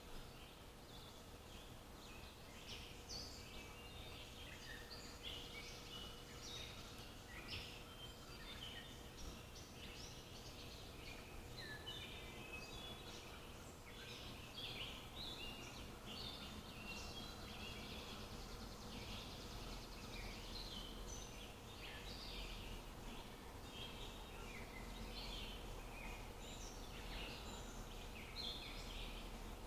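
Many small birds chirping and twittering together in a busy, overlapping chorus, over a faint steady background hum.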